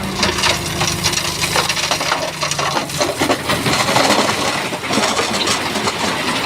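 Shantui bulldozer's diesel engine running as its blade pushes big stones, which crunch and clatter against each other. The engine note drops about two and a half seconds in, and the stone clatter carries on.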